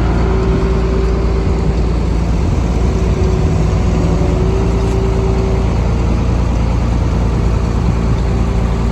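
Engine running steadily at constant speed, with a thin higher whine that comes and goes.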